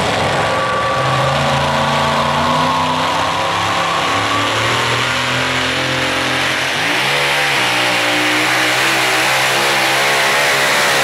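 Super modified four-wheel-drive pulling truck's engine running hard at high revs under load. Its pitch sags in steps, then climbs sharply about seven seconds in and holds high.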